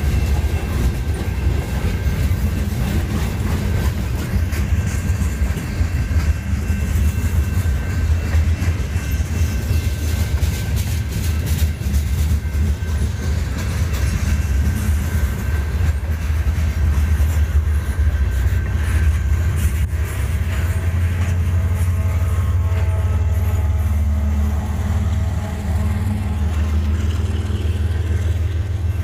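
Freight train rolling past: a steady, heavy rumble of wheels on rail with clickety-clack over the rail joints, and a faint metallic ringing of the wheels.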